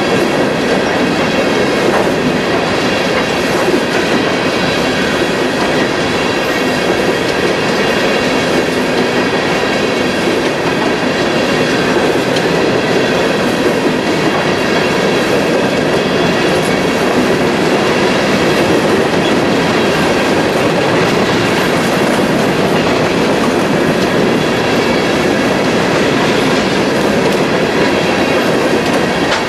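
Freight train of coal hopper cars rolling steadily past, a continuous rumble of steel wheels on rail with thin, steady high-pitched tones over it.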